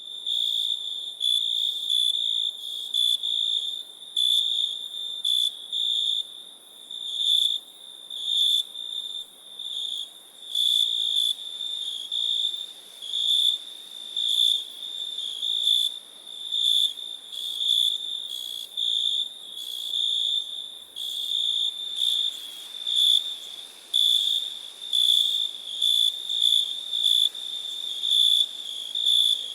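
Crickets chirping: a steady high-pitched trill that pulses louder and softer about once or twice a second.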